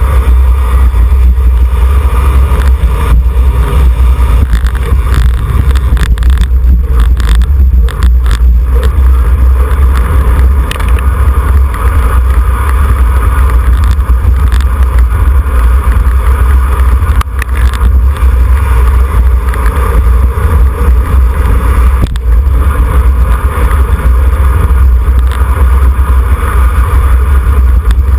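Loud, steady wind buffeting on the microphone of a camera riding along on a road racing bicycle, a deep rumble with a few sharp knocks scattered through it.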